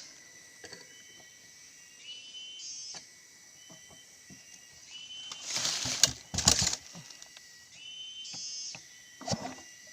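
A chainsaw's recoil starter cord pulled twice in quick succession, two harsh rasping bursts about halfway through, turning the points-ignition engine over for a spark test. Short high chirps come and go around it.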